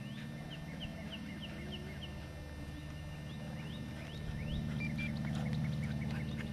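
Small birds chirping with short rising and falling calls, over a low steady drone that grows louder about four seconds in.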